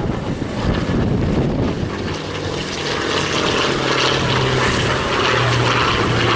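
Hawker Fury flying past with its Bristol Centaurus radial piston engine and propeller running, a steady engine drone that comes in about two seconds in and grows stronger.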